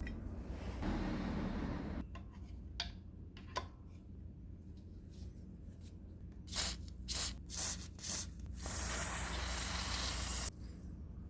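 Aerosol spray can: four short squirts, then one longer spray of about two seconds. Two light clicks come earlier.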